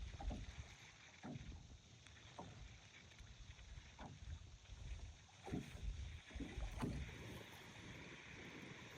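Small wind-driven waves lapping and slapping against the lakeshore, a splash every second or so, over a steady rush of wind.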